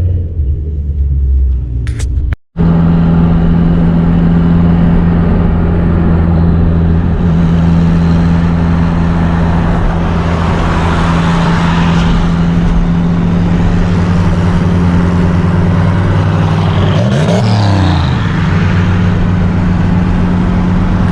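BMW 325i's inline-six engine running at a steady speed while cruising, with road noise, cut briefly by a short gap about two seconds in. About three seconds before the end a short sound sweeps up and down in pitch over the engine.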